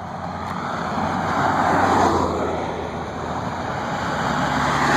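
1/10-scale RC car driving at speed, its motor and tyres growing louder as it passes close, about two seconds in and again near the end.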